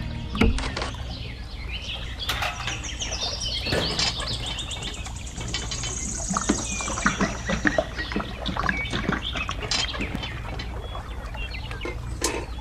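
Small birds chirping and twittering in quick repeated calls, with a high held trill in the middle. Scattered light knocks and clicks sound among the calls, the sharpest about half a second in.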